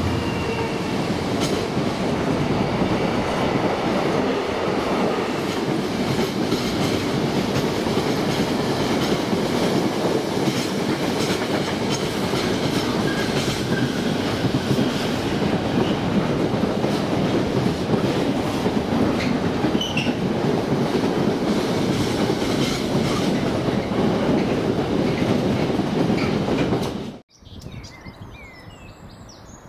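Freight train wagons rolling past, clattering steadily over the rail joints with a few brief wheel squeals. About 27 seconds in, the sound cuts off abruptly to quiet birdsong.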